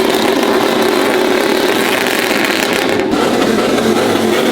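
Truck engine running loud at high revs, with a dense wash of noise.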